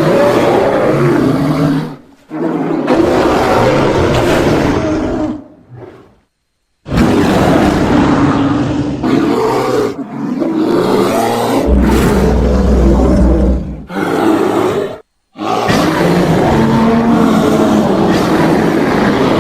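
A run of bear roar sound effects: about six separate roars and growls, each two to four seconds long, with short silent gaps between them. One roar about two-thirds of the way through carries a deep, heavy rumble underneath.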